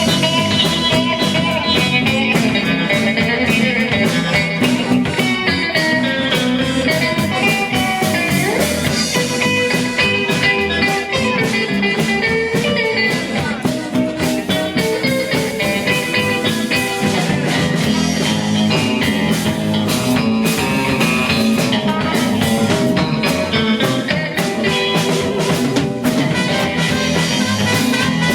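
Live rock band playing an instrumental passage with electric guitar and drum kit, a guitar solo between sung verses.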